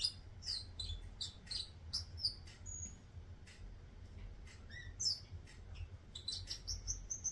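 Turquoise parrot twittering: a quick run of short, high chirps and whistled notes, several a second, over a low steady hum.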